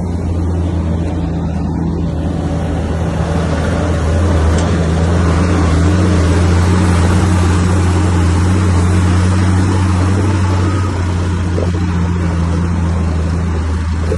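Komatsu bulldozer's diesel engine running steadily with a deep hum, under a rush of harsher noise that builds a couple of seconds in, is loudest in the middle and eases off near the end.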